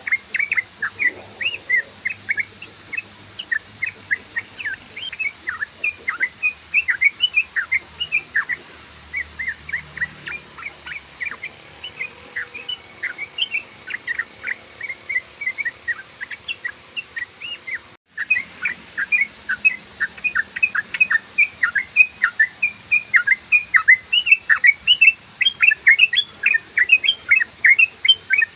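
Yellow-vented bulbul (trucukan) singing in a fast, unbroken 'ropel' stream of short bubbly chirps, several notes a second, with a brief cut about two-thirds of the way through.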